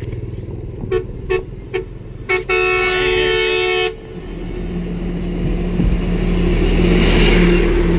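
A vehicle horn honking: four short toots, then one long blast lasting about a second and a half, over the steady running of a motorbike engine and wind noise. After the horn, the engine and wind noise grows gradually louder.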